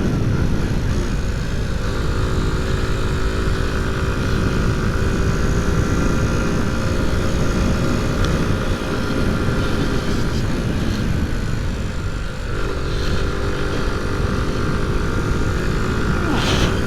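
Honda C90's small single-cylinder four-stroke engine running hard at high revs while riding, with heavy wind rush on the microphone. The engine note briefly dips about twelve seconds in, then picks up again at a slightly different pitch.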